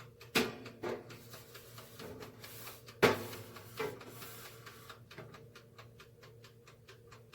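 Mechanical timer dial of a Nostalgia breakfast station's toaster oven ticking steadily, about four to five ticks a second, after a few louder knocks from the appliance being handled. The oven is switched on but not heating: the timer runs down with no heat.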